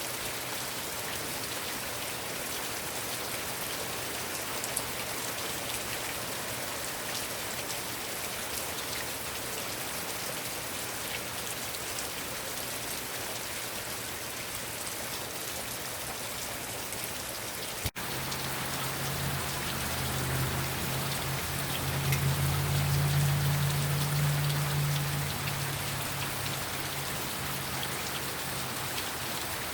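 Heavy rain falling steadily, a dense hiss of drops. About two-thirds of the way through there is a brief break, then a low rumble swells and fades over about ten seconds beneath the rain.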